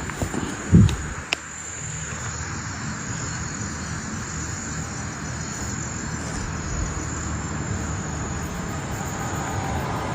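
Steady high-pitched drone of insects over a low background rumble, with one loud low thump just under a second in and a sharp click shortly after.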